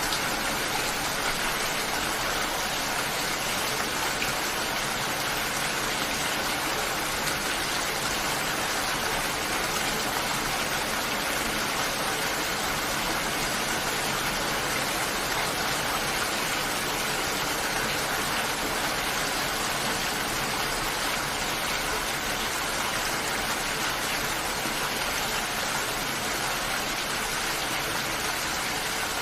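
Steady rainfall: an even, unbroken hiss of falling rain that does not change.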